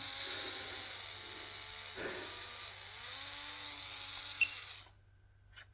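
Small DC motor spinning at high speed on about 9 volts from a bench power supply, a steady high-pitched whine. It stops near the end.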